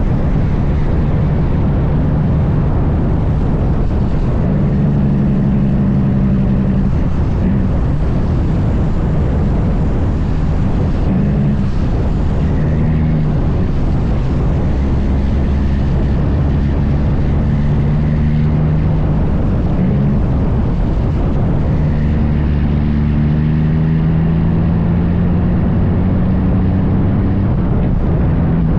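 Big diesel truck engine running steadily at road speed, a loud drone with road rumble. Its pitch drifts slightly up and down as the load changes.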